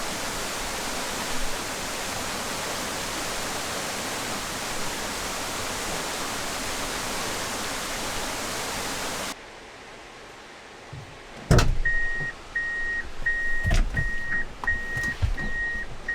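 A waterfall rushing steadily, cut off suddenly about nine seconds in. Then come a few heavy thumps and a run of short, even electronic beeps, about seven of them at one pitch, less than a second apart.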